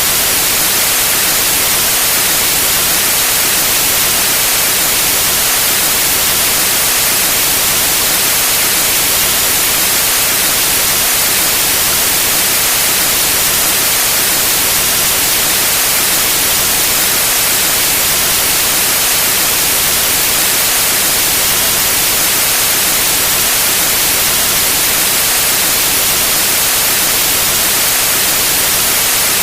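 Steady white noise: an even, unchanging hiss, brightest at the top.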